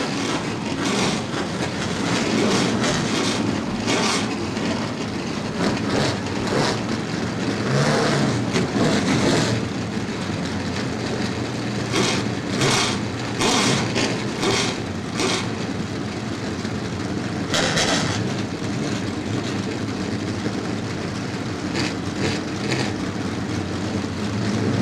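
A field of race truck engines running together, rough and loud, with repeated throttle blips and revs rising over the steady running.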